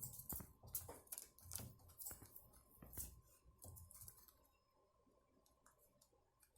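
Faint irregular clicking and scratching, about two sharp clicks a second for the first four seconds, then fading to near silence; a faint steady hum stops near the end.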